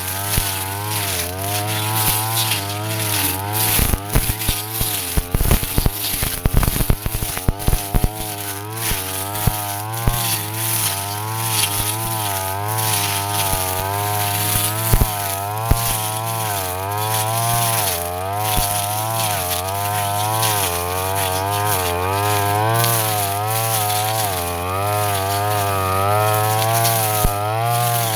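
Brush cutter engine running under load while cutting grass, its pitch rising and falling as it bogs and recovers. A run of sharp clicks and clatters comes from about four to nine seconds in.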